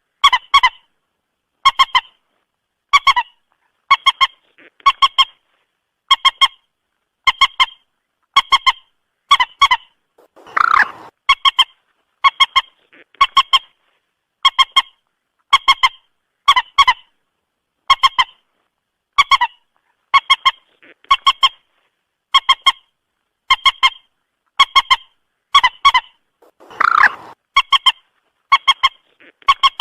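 Moorhen calling: short, clipped calls about once a second, often in quick pairs, with a longer, rougher call twice, around 11 and 27 seconds in. This is a recorded call used as a lure for trapping moorhens.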